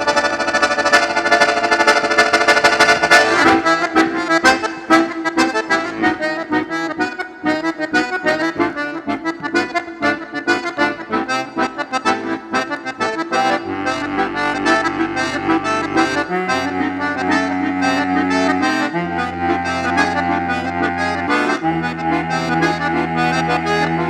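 Accordion playing solo music. It opens on a held chord, breaks into fast runs of notes after about three seconds, and later carries a melody over sustained bass chords that change every two to three seconds.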